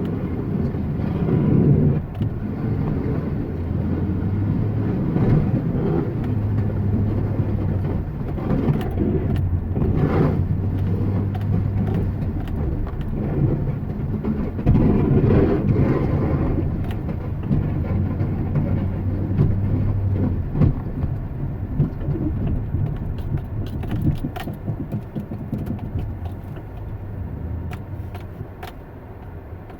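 An engine runs steadily with a low hum, easing off over the last few seconds.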